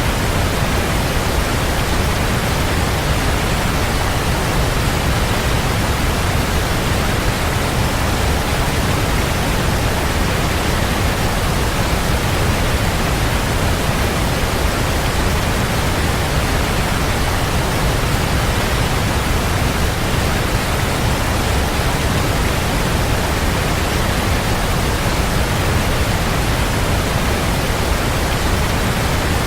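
Waterfall: a steady rush of falling water, even and unbroken, heaviest in the low rumble.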